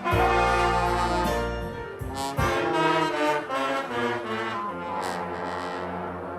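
Live band music with brass instruments playing a melody over sustained low bass notes.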